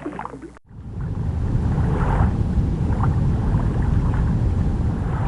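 Steady low rumbling ambient noise that starts after a brief drop-out just under a second in, with faint soft swells about two and three seconds in.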